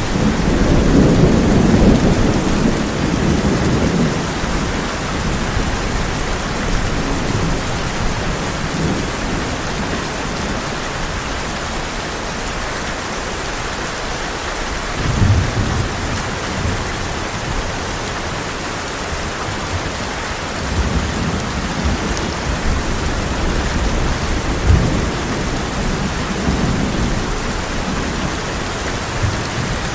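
Heavy rain drumming steadily on a tin roof, with rolling thunder: a long rumble in the first few seconds, then a few shorter, softer rumbles and low thumps later on.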